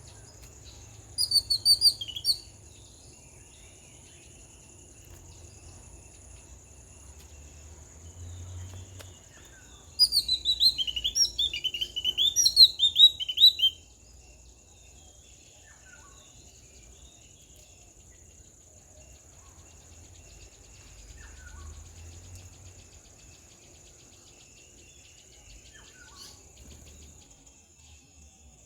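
Two bouts of rapid, high chirping calls, the first about a second in and a longer one from about ten to fourteen seconds, over a steady high insect drone.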